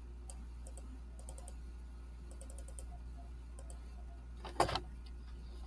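Computer keyboard typing: scattered light key clicks, with one louder knock about four and a half seconds in, over a steady low hum.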